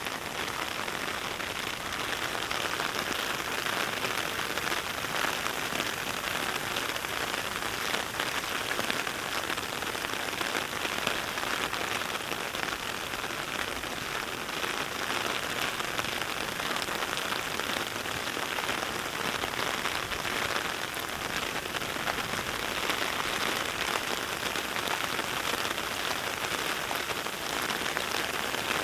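Heavy, steady rain recorded binaurally: a dense, even patter of raindrops that does not let up.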